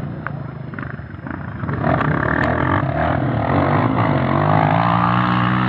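Off-road motorcycle engine running, growing louder about two seconds in and revving up and down as it is ridden.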